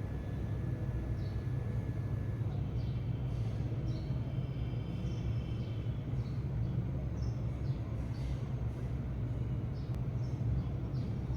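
House sparrows chirping in short, scattered calls over a steady low rumble, like engine or traffic noise. The rumble is the loudest sound throughout.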